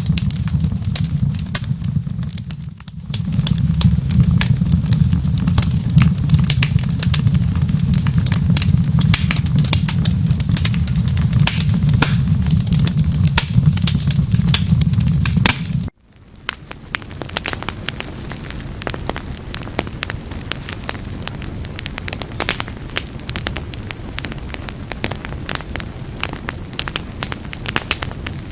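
Wood fire crackling with many sharp pops, over a deep steady rumble. Just past halfway the rumble cuts off abruptly, and the crackling goes on over a softer, even hiss.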